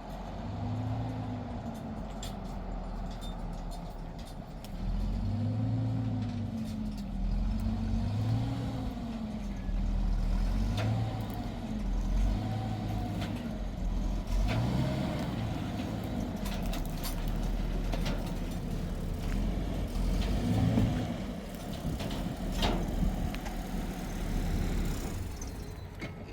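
An engine running with a steady low hum, its pitch repeatedly swelling up and falling back every second or two.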